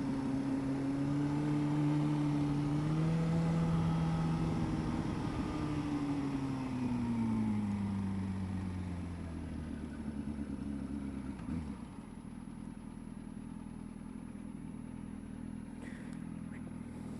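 Motorcycle engine running on the move, its pitch rising briefly and then falling steadily over several seconds as the bike slows, then settling into a steady, quieter idle.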